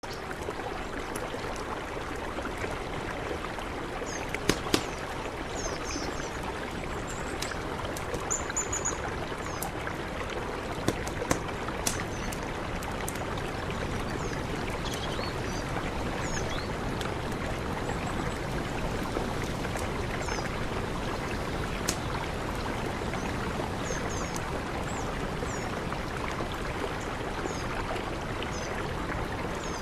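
Mountain river rushing steadily. Faint short high chirps come now and then, and there are a few sharp clicks.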